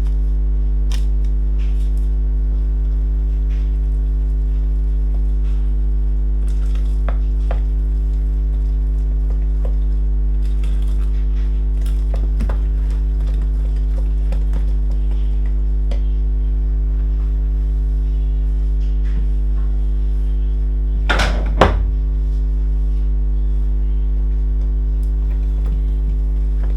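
Scattered light clinks and taps of a spoon against a mixing bowl as dry ingredients go into batter, with two louder knocks about three quarters of the way through. A steady electrical hum runs underneath throughout.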